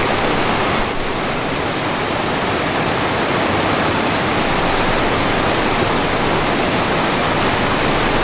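Rushing water of a mountain stream or small waterfall, a loud, steady rush without a break.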